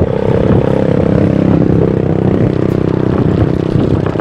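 A motor vehicle's engine running close by in street traffic, its hum dropping slightly in pitch, over road rumble and clatter.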